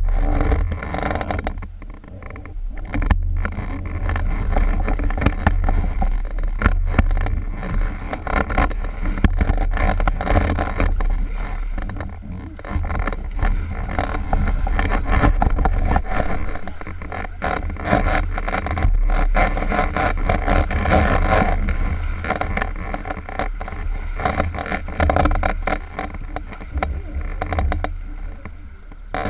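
Water rushing and splashing around a kayak on the move, full of fine crackles and splashes, with a steady low rumble of wind on the microphone.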